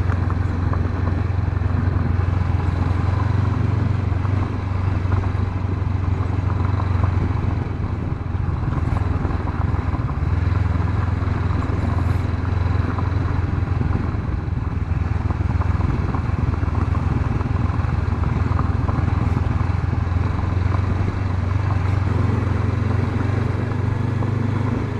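Honda CB500X's 471 cc parallel-twin engine running steadily as the motorcycle is ridden along the road, with a low steady drone and road noise.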